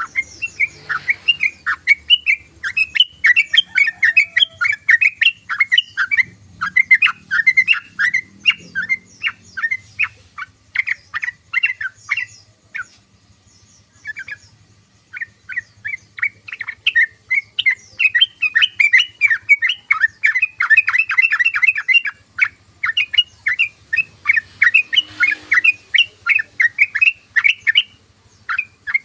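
Sooty-headed bulbul (trucukan) singing a fast, chattering song of short notes, several a second, that breaks off for a couple of seconds about halfway through and then starts again.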